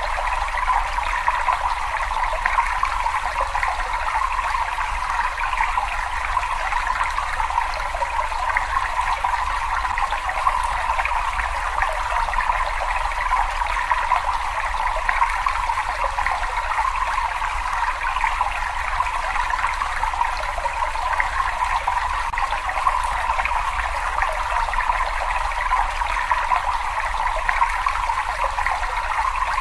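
Water running and trickling steadily, an unbroken rushing sound with a low rumble underneath.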